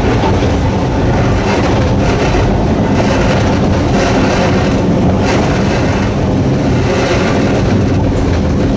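Sangi Railway Hokusei Line narrow-gauge electric train running steadily, with the steady hum of its nose-suspended traction motors over the wheel and rail noise.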